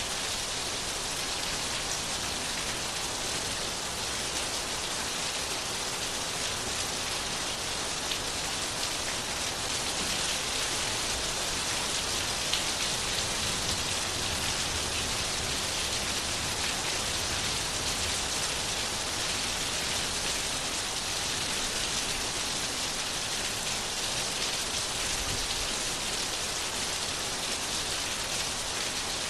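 Steady rain falling, an even dense hiss of drops with fine patter and no break.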